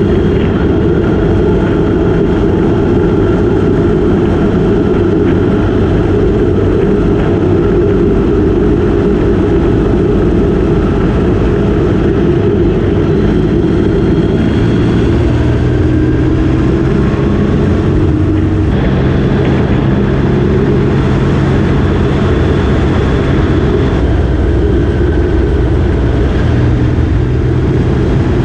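Motorcycle engine running steadily at road speed. The engine note shifts pitch a few times, with a brief break about two-thirds through, as speed or gear changes.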